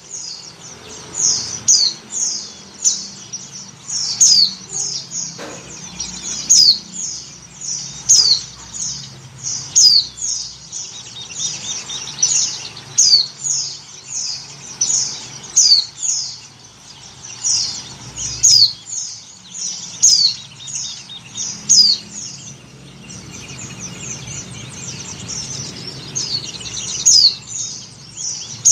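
Female white-eye (pleci) giving short, high chirps that sweep downward, repeated about once or twice a second: a female in breeding condition calling for a male. A faint low hum lies under the calls.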